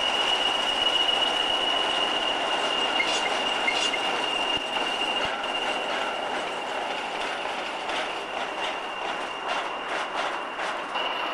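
Nuclear flask wagons of a freight train hauled by Class 20 diesels rolling past on curved track, their wheels giving a steady high-pitched squeal over a rumble. A run of rapid clicks from the wheels over rail joints comes in during the second half.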